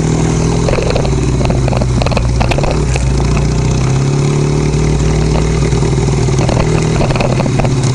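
Motorcycle engine running at a low, steady road speed, its pitch dipping and rising slightly, with a few light clicks and rattles over it.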